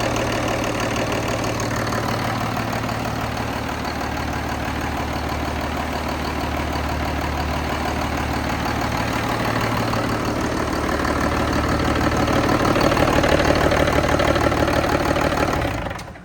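Cummins QSB diesel engine running steadily at idle. It grows somewhat louder in the last few seconds, then cuts off at the very end.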